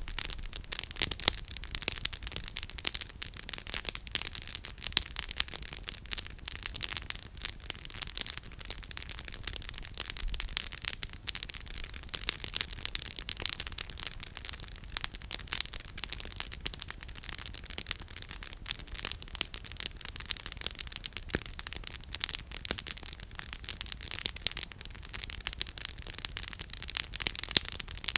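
Campfire burning with firewood crackling and popping in dense, irregular snaps, over a faint low rumble.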